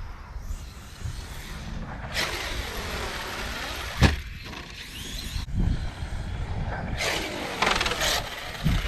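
Arrma Kraton 6S RC truck's brushless motor (Hobbystar 4092, 1730kv) whining under hard throttle, its pitch sweeping up and down. There is a sharp thump about four seconds in, and a second burst of throttle a little after seven seconds.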